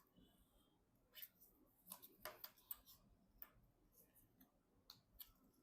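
Faint, irregular clicks and light taps of computer parts being handled.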